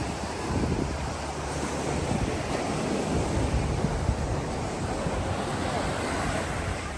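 Ocean surf washing onto the beach, a steady hiss of breaking water, with wind gusting on the microphone in a low rumble.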